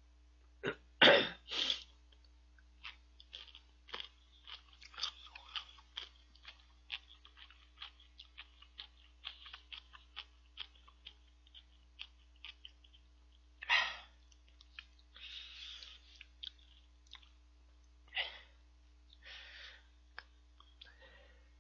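A man chewing and sucking on spicy chicken feet, a run of small wet clicks and crackles from the mouth, with a couple of louder breathy bursts, about a second in and again near the fourteen-second mark.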